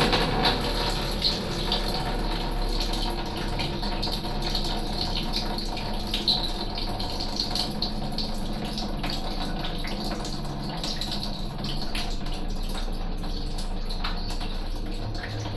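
Water running steadily, with scattered light clicks and knocks over it.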